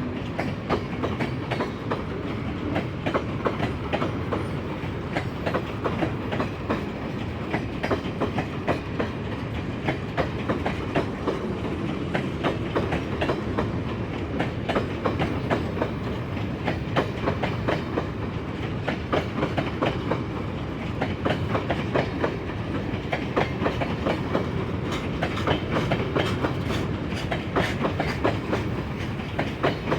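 Freight train wagons rolling past at speed: a steady rumble with rapid, continual clickety-clack of steel wheels over rail joints.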